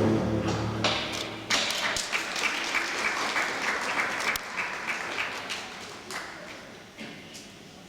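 Audience applause, a dense patter of many clapping hands that sets in about a second and a half in as the music stops, then slowly fades away.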